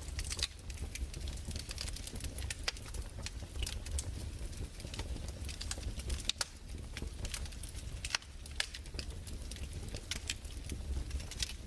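Wood fire crackling: irregular sharp snaps and a few louder pops over a low steady rumble.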